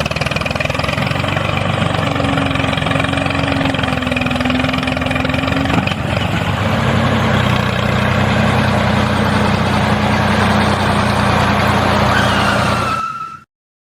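A vehicle engine running steadily with a low hum, its pitch stepping down slightly partway through, then cutting off abruptly near the end.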